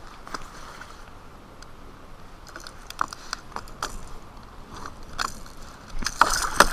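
Scattered clicks and rattles of a small striped bass and the topwater popper it is hooked on being handled, with a louder flurry of clicks near the end.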